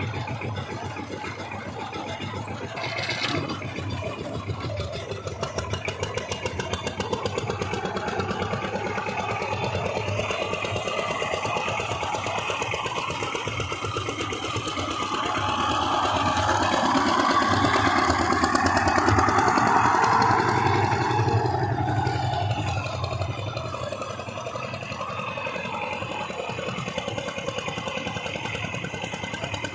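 Power tiller engine running with a fast, even firing beat. It swells louder for several seconds in the middle, then settles back.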